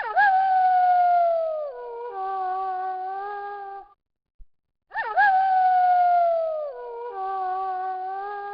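Wolf howling: each howl swoops up sharply, slides slowly down, then drops into a lower, steady tone for about two seconds. The same howl comes twice, about five seconds apart.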